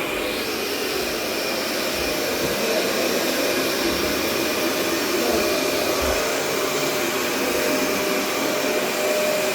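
Vacuum cleaner running steadily, a constant motor hum with a steady whine over it.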